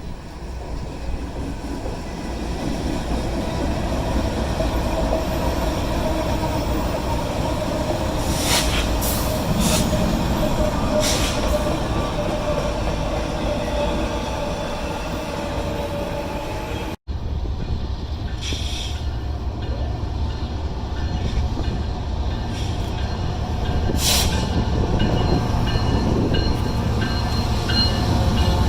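Train rolling past on the rail line: a steady low rumble of wheels and cars, with a few clanks and a faint wheel squeal. The sound breaks off for an instant about two-thirds of the way through, then carries on.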